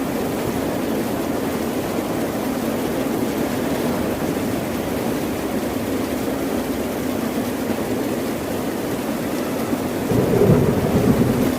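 Ocean surf washing steadily, with one wave swelling louder about ten seconds in before easing.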